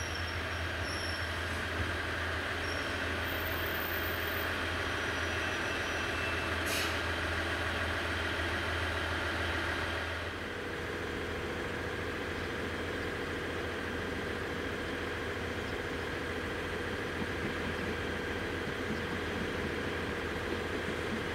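Steady train noise: a low hum with a higher whine over it from railcars on a shunting move. About ten seconds in it changes abruptly to another steady hum with a mid-pitched tone, from a standing JR East 209 series electric train.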